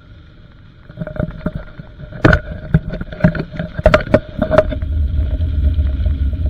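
A run of sharp knocks and clunks, then a steady low rumble like a vehicle driving, which builds a little after halfway.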